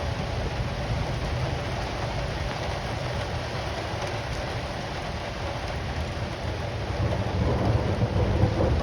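Rain falling steadily in a thunderstorm, with a low rumble of thunder that dies away over the first seconds and builds again near the end.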